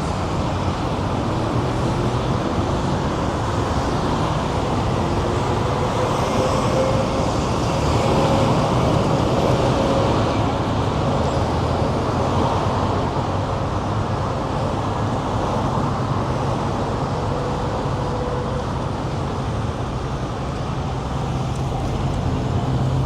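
Steady city street traffic noise, with motor vehicles passing.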